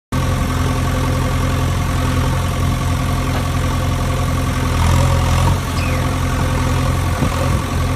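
Engine running steadily at idle, with a deep, even hum.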